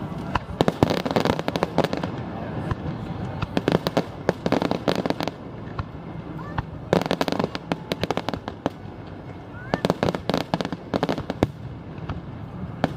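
Aerial fireworks exploding in rapid clusters of sharp bangs and crackling pops, with four or five salvos each lasting a second or two and short lulls between them.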